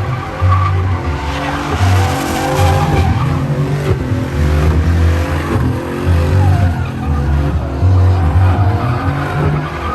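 Truck doing a burnout: the engine is held at high revs while the rear tyres spin and screech, with the engine note cutting in and out.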